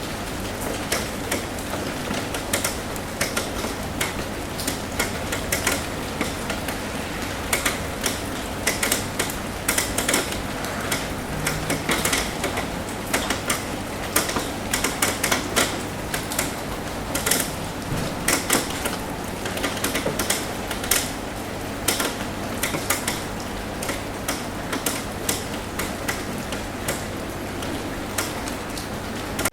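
Rain tapping on a roof: many irregular ticks of drops over a steady hiss, with a low steady hum underneath.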